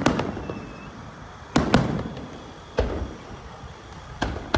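Aerial firework shells bursting: five sharp bangs, two in quick succession about a second and a half in, then single bangs near three seconds and twice near the end, each dying away briefly.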